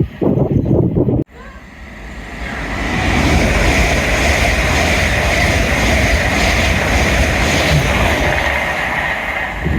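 A train passing at speed: a rushing rumble of wheels on rail that builds over about two seconds, then holds steady.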